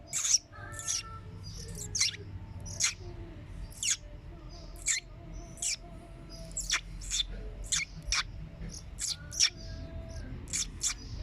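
Oriental magpie-robin (kacer) giving short, sharp chirps, about two a second at an irregular pace.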